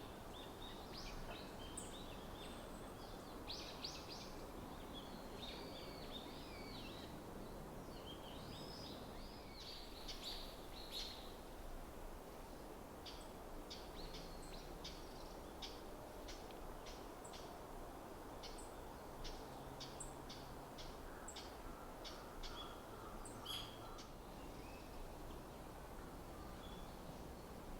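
Small songbirds calling in a winter forest: twittering calls for the first dozen seconds, then a run of short, sharp chips about two a second. A steady low background rumble runs underneath.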